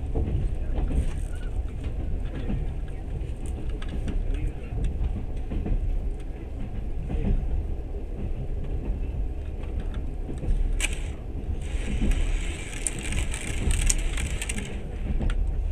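Passenger train running on its rails, with a steady, uneven low rumble and scattered faint clicks. About twelve seconds in, a hiss joins for a few seconds.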